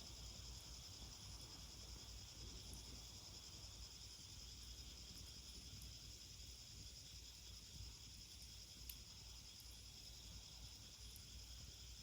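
Faint, steady, high-pitched insect chorus with a few faint sharp ticks.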